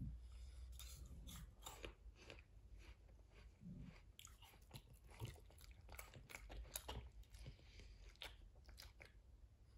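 Faint chewing and crunching of fruit pieces, a run of small irregular clicks and crunches.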